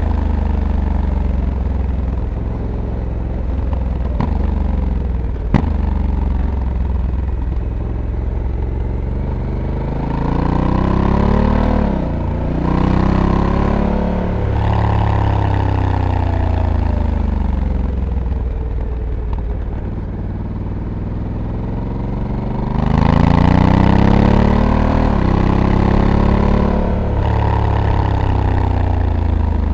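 Honda Africa Twin Adventure Sports DCT's parallel-twin engine pulling through bends, its pitch repeatedly rising under throttle and falling away, with brief sharp dips as the dual-clutch gearbox changes gear. About two-thirds of the way in it gets louder, with rushing wind mixed in.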